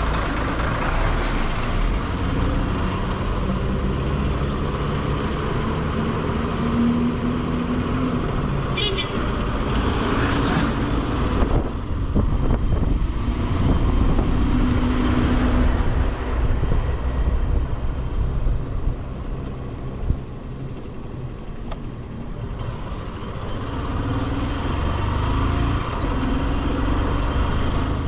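Bajaj Pulsar motorcycle riding along a highway: engine running and wind rushing, with road traffic around it. The sound grows louder after about twelve seconds, drops away for several seconds past the middle, then picks up again.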